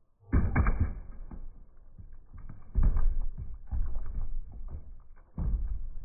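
Slowed-down, deep-pitched crashes of a brick smashing into a coffee maker, about five heavy blows, each dying away slowly.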